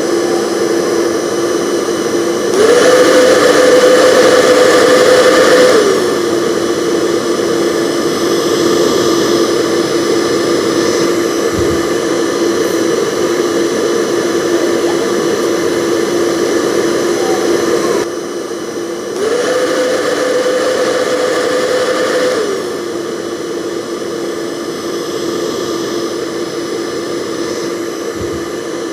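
Hair dryer blowing steadily with a motor hum and rushing air. Twice its pitch steps up and it gets louder for about three seconds, as if switched to a higher speed, then it drops back to the lower setting.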